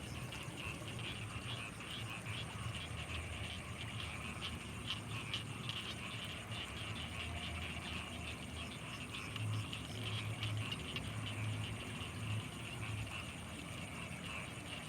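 Night chorus of frogs and insects in flooded rice fields: a dense mass of rapid clicking calls with a steady high insect whine over it, and a run of deeper pulsing calls about two-thirds of the way through.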